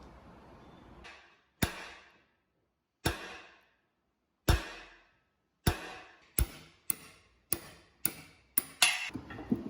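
Hammer blows on metal, each ringing briefly. About ten strikes, a second and a half apart at first, then coming faster, about two a second.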